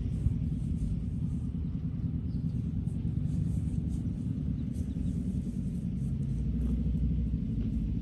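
Wind buffeting the microphone: a steady, uneven low rumble, with faint scattered ticks high above it.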